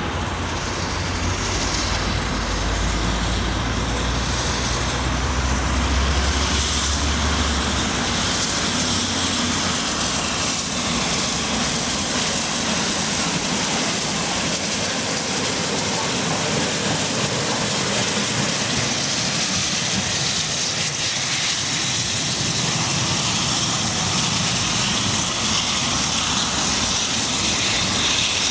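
A steady rushing roar from a passing train, with a deep rumble that falls away about eight seconds in.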